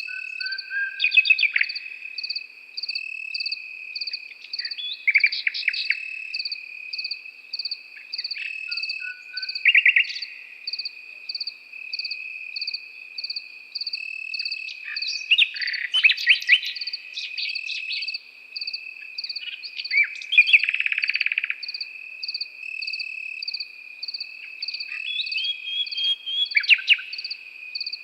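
Common nightingale singing short bursts of rapid notes every few seconds over crickets: one steady unbroken trill and a second insect chirping in even pulses, about two to three a second.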